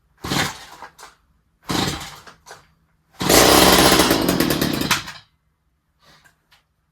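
Stihl HS45 hedge trimmer's two-stroke engine on a test start after a carburettor rebuild: it fires in three short bursts, the first two under a second each, the third and loudest running for about two seconds before cutting out suddenly.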